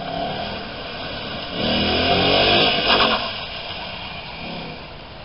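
2015 Ford Mustang GT's 5.0-litre V8 running hard through an autocross course. It is loudest for about a second and a half starting around one and a half seconds in, with a hiss over the engine note, then eases off.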